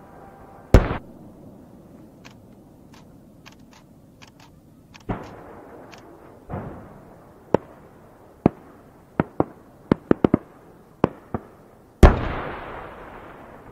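Aerial firework shells bursting: a loud bang about a second in, scattered faint pops, then a quick run of sharp reports. Near the end comes the loudest boom, with a long rumbling echo that fades slowly.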